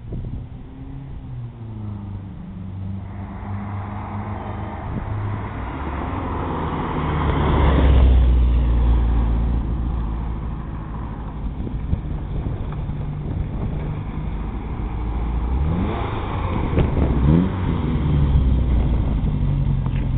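Austin Mini's 1275cc A-series four-cylinder engine with a stage 1 exhaust, revving up to its loudest about eight seconds in, easing back, then rising again in pitch near the end.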